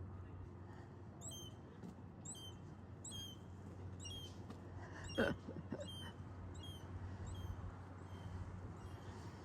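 Animal calls: short, high-pitched squeaky chirps repeating about once a second, with one louder call sliding down in pitch about five seconds in.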